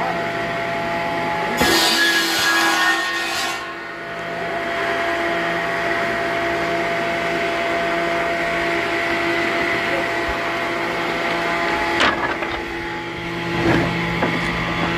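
Woodworking machinery running with a steady, many-toned hum, with a loud hissing burst lasting about two seconds near the start and a couple of sharp knocks later on.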